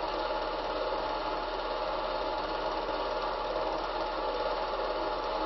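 Cine film projector running, a steady mechanical whirr with fine rapid clatter that does not change.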